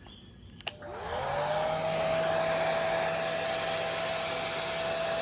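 Blow dryer for drying wet dogs switched on with a click. Its motor whine rises over about half a second, then holds steady over the rush of air.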